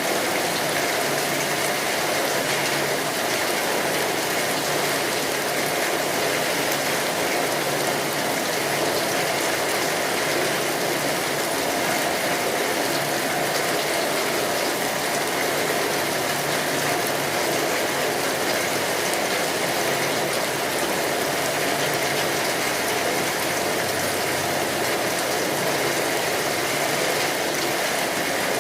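Rain drumming steadily on a tin roof, a dense even patter, with a wood fire crackling.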